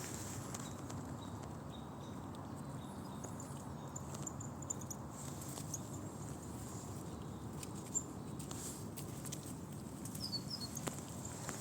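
Red squirrel scratching and patting in leaf litter while burying pine nuts: soft scattered rustles and taps, one sharper tap about eight seconds in. Short high bird chirps sound a few seconds in and again near the end.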